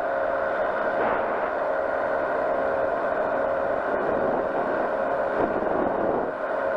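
Powered parachute's engine and propeller running steadily, with a short dip in level near the end.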